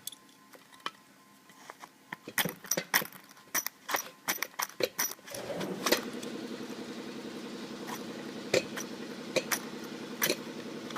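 Pliers clicking and rattling against the wire and metal plate of a Bag Shag golf ball retriever as the wire is worked loose. About five seconds in, a steady motor hum starts and runs on under the clicks.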